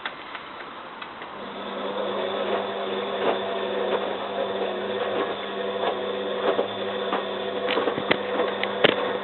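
Bosch WFF2000 washing machine's drum motor starting about a second in and turning the drum in a wash tumble: a steady motor hum with scattered clicks and knocks from the load inside.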